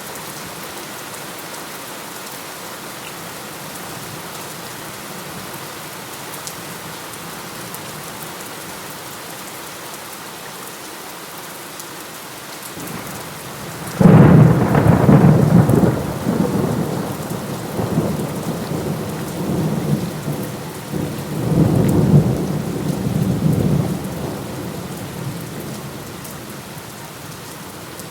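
Steady rain falling, with a sharp thunderclap about halfway through that rolls on as rumbling thunder for several seconds, swells again, then dies away back to the rain.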